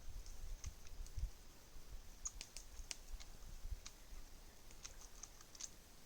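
Campfire wood crackling, with scattered irregular sharp pops and a faint low rumble underneath.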